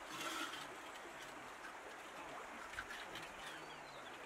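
Faint bird calls in a quiet rural background, with a few short high chirps near the end and a soft slosh of muddy water near the start.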